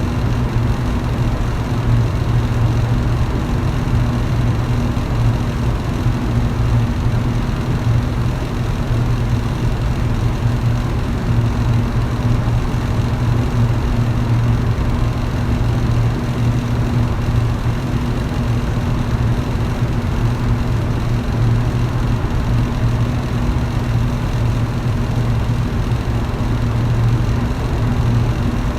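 Electric fan running steadily: a constant low motor hum under an even rush of air from the blades.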